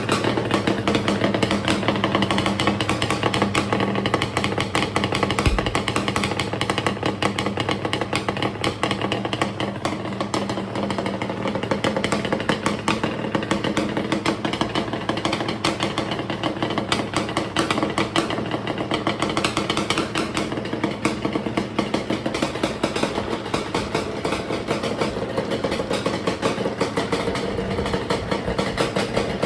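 Yamaha Banshee's two-stroke parallel-twin engine idling steadily and low through Toomey T5 expansion-chamber exhausts, a freshly rebuilt and tuned engine.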